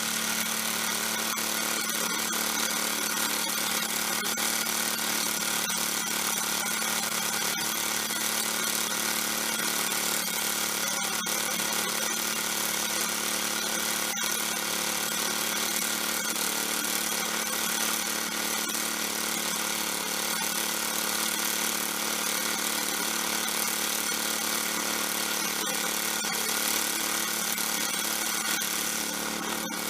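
Small gasoline snowblower engine running steadily at a constant speed, with a bad muffler.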